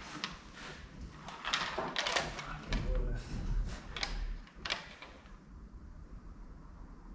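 A run of short scrapes and knocks, about half a dozen over the first five seconds, then quieter: parts shifting and rubbing against each other as the Peugeot 207's body is raised off its engine.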